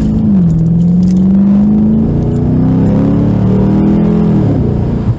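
Straight-piped Chevrolet Camaro SS V8 exhaust pulling under acceleration. The pitch drops at an upshift just after the start, climbs steadily for about four seconds, then falls away near the end.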